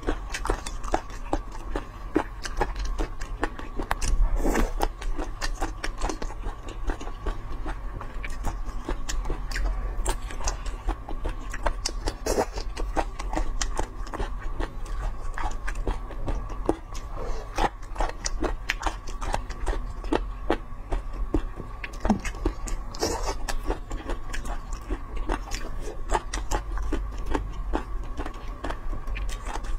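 Close-miked chewing and biting of food: a dense run of small wet clicks and smacks from the mouth. A faint steady hum lies underneath.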